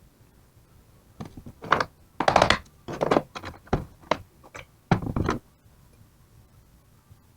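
A quick run of knocks and clunks from alternator parts and tools being handled during a bearing job, some with a short rattle, over about four seconds.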